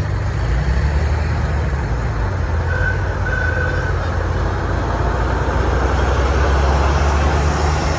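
Large truck engine running steadily with a deep low rumble. Two short high tones sound briefly about three seconds in.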